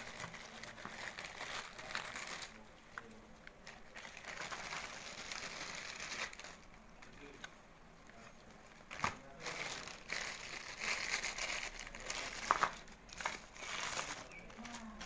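Plastic packaging crinkling and rustling in irregular bursts, with sharp clicks, as a parcel is handled and unpacked.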